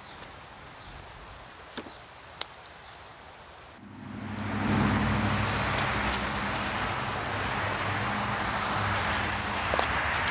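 Two light clicks against quiet outdoor background. About four seconds in, a much louder engine sound comes in and then runs steadily.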